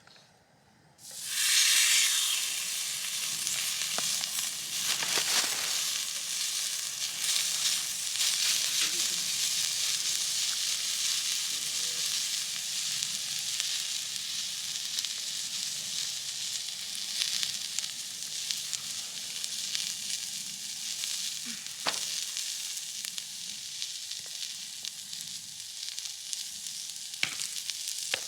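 Steak laid into a hot pan, starting to sizzle loudly about a second in and then frying steadily, with a few small pops.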